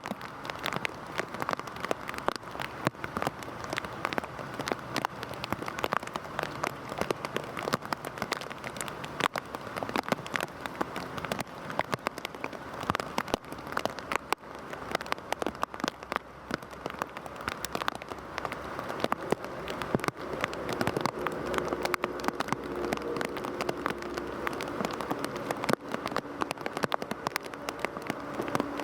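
Heavy rain falling steadily: a dense hiss packed with the crackle of countless individual drops hitting a surface. A faint steady low hum joins about two-thirds of the way through.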